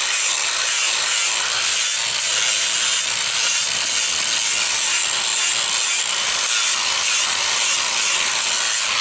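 Power grinder running steadily against a horse's hoof wall, scooping the quarters by grinding the hoof wall at the quarters. A continuous grinding hiss over a faint motor hum.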